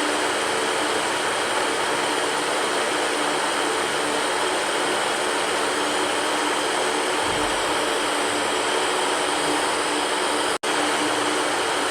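Electric fan running, a steady whooshing air noise with a faint hum in it. It cuts out for an instant near the end.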